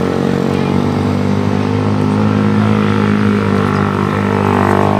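Motorcycle engine idling steadily, without revving.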